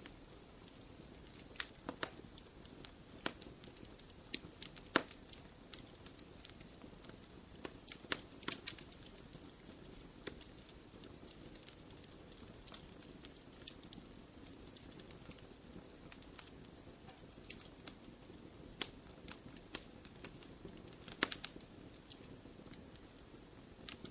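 Wood fire burning in a fireplace: irregular crackles and sharp pops over a low steady hiss, with a few louder pops scattered through.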